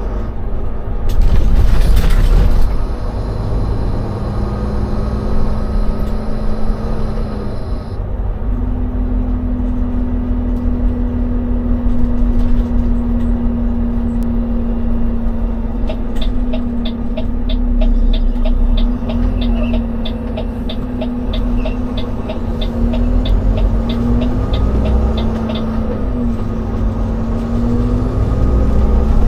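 A semi tractor's diesel engine runs steadily under way, heard from inside the cab. About a second in there is a brief loud burst of noise. In the second half a regular ticking, about three a second, runs for about ten seconds.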